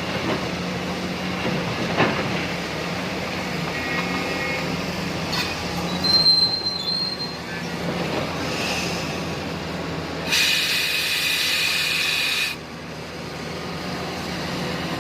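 Tata Hitachi Zaxis 870 LCH hydraulic excavator working: steady engine drone with metallic knocks and clanks, a brief high squeal about six seconds in, and a loud hiss lasting about two seconds near the ten-second mark.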